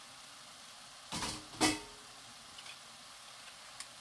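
Soft steady sizzle of julienned bellflower root frying in an uncovered pan, with two sharp knocks of kitchenware about half a second apart just past the one-second mark and a couple of faint clicks later.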